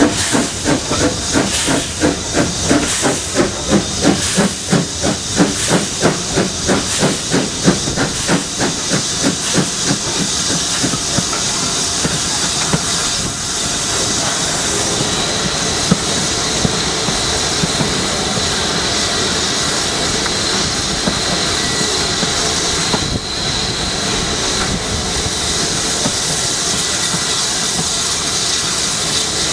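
Steam locomotive working, with rapid, even exhaust beats that blend after about ten seconds into a steady hiss of steam.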